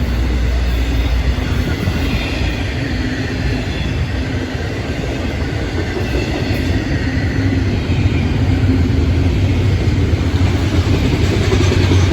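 Freight train cars rolling past at speed: a steady rumble of steel wheels on the rails, growing louder in the last few seconds.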